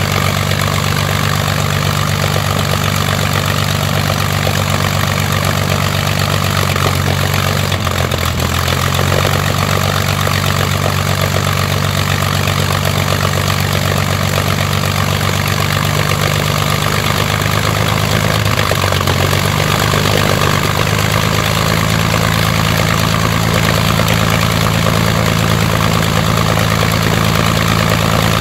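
Rolls-Royce Merlin V12 aero engine running steadily on a ground test run, its note shifting slightly about eight seconds in and rising a little around twenty seconds in.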